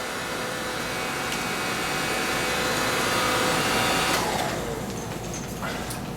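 Oreck AV-701B cordless stick vacuum running, then switched off about four seconds in, its motor whine falling in pitch as it spins down.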